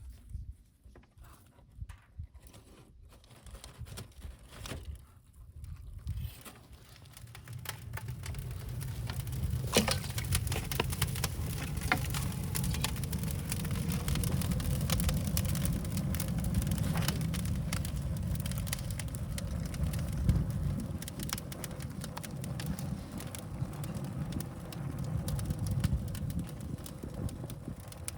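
Open fire burning cut bamboo. At first only a few scattered crackles are heard; from about seven seconds in the fire picks up into a steady low roar, with dense sharp crackling and popping from the bamboo.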